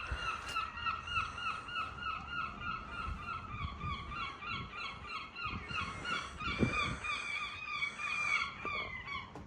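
A flock of geese honking, many short calls overlapping several times a second without a break.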